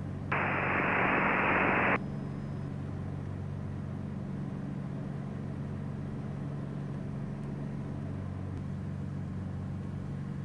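Cessna 421B's twin piston engines and propellers droning steadily in the cockpit as a low hum of several steady tones. About a third of a second in, a burst of hiss starts and stops abruptly after about a second and a half.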